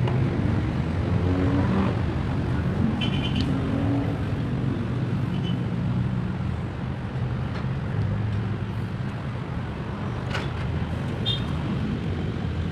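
Steady low rumble of vehicle engines or traffic in the background, with a few short metallic clinks and a sharp click, typical of metal parts being handled.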